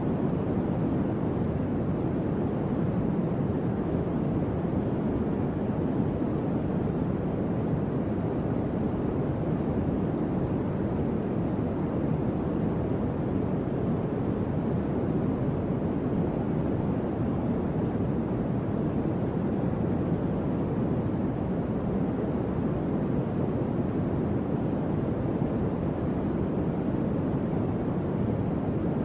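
Electric fan running steadily: an even, low airy whoosh with no changes in level.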